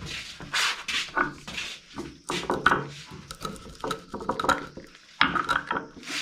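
Cooking utensils clinking and scraping against pots and dishes in irregular clatters, busier near the end.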